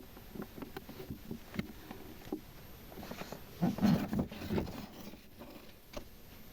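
Light taps and clicks of small objects being handled and set down, with a louder cluster of knocks about four seconds in.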